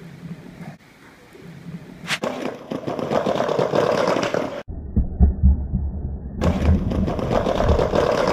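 Skateboard wheels rolling over rough, wet ground. A sharp click about two seconds in is followed by a dense rolling rumble. Midway an abrupt cut brings a muffled stretch of low thumps, and then the rolling sound returns.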